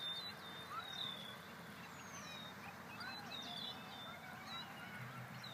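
Songbirds calling faintly: a short, high whistled note repeated about once a second, with scattered quick chirps from other birds over a soft outdoor hiss.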